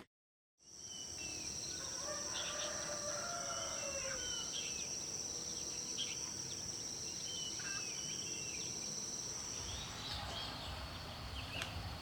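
Outdoor rural ambience: a steady high-pitched insect drone that stops about ten seconds in, with birds chirping throughout and a rooster crowing once, about two seconds in.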